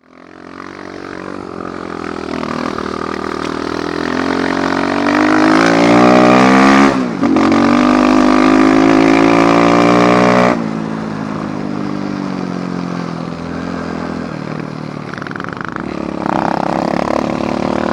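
Apollo dirt bike engine running under way. It revs up for about seven seconds, dips briefly as a gear change, holds high, then eases off at about ten and a half seconds to steadier, lower running.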